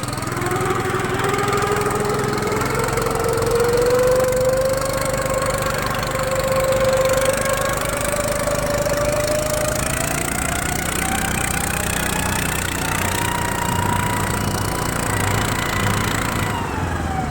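Engine of a Tofalar Long motorized snow dog running under way as it accelerates: its pitch climbs in two steps over about thirteen seconds, holds, and drops near the end as the throttle eases.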